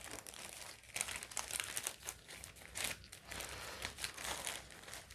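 Parcel packaging crinkling and tearing as it is unwrapped by hand, in irregular rustling bursts.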